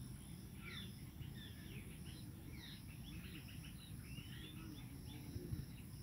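Faint chorus of many small birds chirping and twittering, short quick calls overlapping throughout, over a low steady rumble and a thin high hiss.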